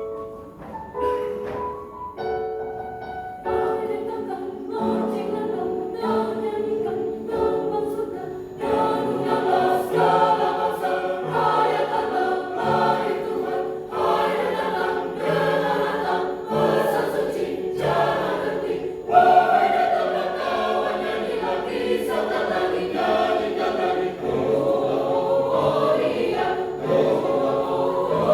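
Church choir singing an Indonesian Christmas hymn in parts, growing fuller about three and a half seconds in.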